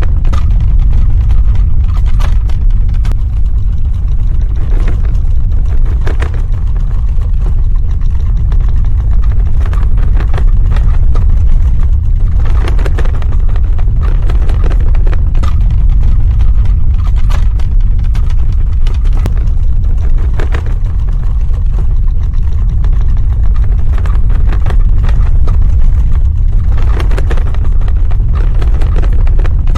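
Earthquake sound effect: a loud, continuous deep rumble with brief crackles breaking through every few seconds.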